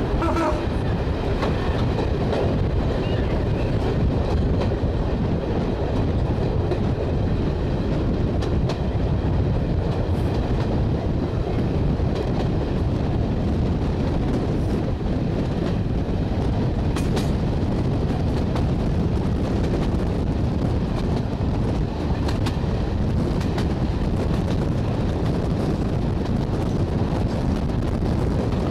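Running noise of a slam-door electric multiple unit heard from an open carriage window as it pulls away and runs along the line: a steady rumble of wheels on rail with clickety-clack over the joints.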